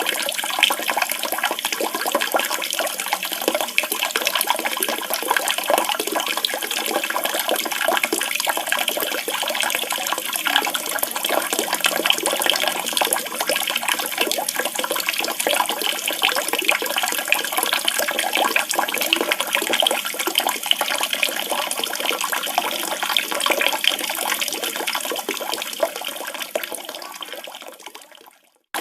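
Flowing, splashing water, steady in level, fading out over the last couple of seconds.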